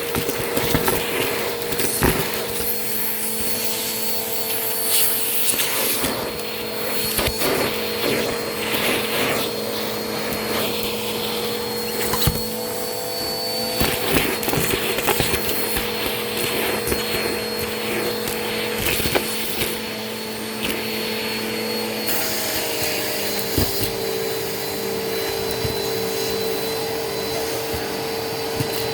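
Vacuum cleaner running steadily with a constant motor whine, while crunchy debris crackles and clicks as it is sucked up. The whine shifts slightly in pitch about three-quarters of the way through.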